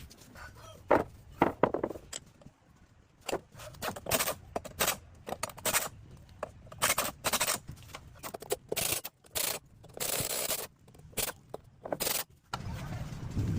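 Repeated short scraping strokes at an uneven pace, with a longer stretch of scraping about ten seconds in.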